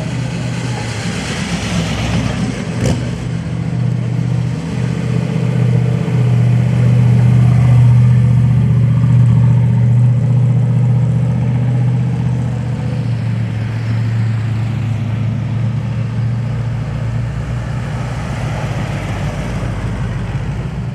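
Car engine running with a low, steady rumble, growing louder to a peak about seven to ten seconds in, then easing off slightly.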